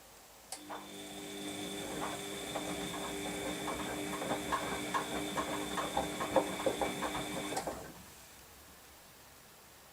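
Washing machine drum motor starting with a click and turning the drum for about seven seconds in the wash cycle. It gives a steady motor whine with a rapid, irregular clicking and knocking, then stops abruptly.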